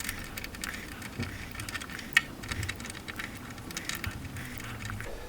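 Light scattered clicks and taps of small metal parts and tools being handled, with one sharper click about two seconds in.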